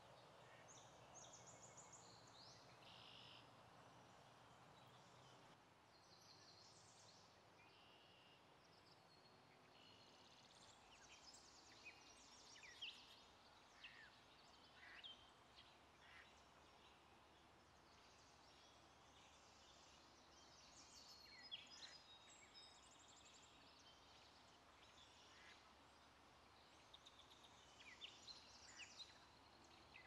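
Faint wild birds chirping and calling, many short high notes scattered throughout and busiest in the second half, over a faint steady outdoor hiss.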